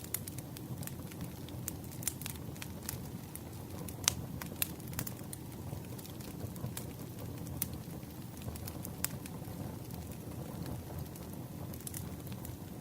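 Campfire crackling: a steady low rush of burning wood with scattered sharp pops and snaps, the loudest about four seconds in.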